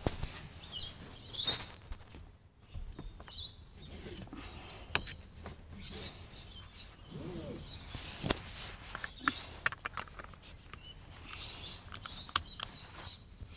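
Small birds chirping now and then in the background, over scattered sharp clicks and knocks from a phone being handled up close.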